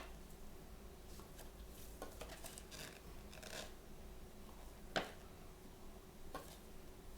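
Hands handling toy blind-box packaging: scattered soft rustles and crinkles, with a sharp click about five seconds in and a lighter one a little later, over a faint steady hum.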